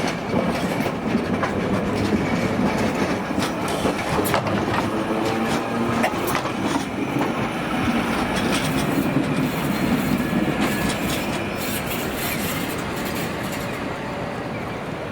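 Toyama Chiho Railway city tram running on street track, its wheels clacking over rail joints and points with a steady running rumble, easing off slightly near the end.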